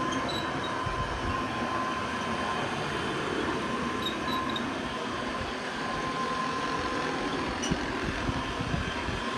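Antique Hoover Model 105 upright vacuum cleaner running steadily, a rush of air with a faint steady whine, its motor and fan bushings freshly oiled.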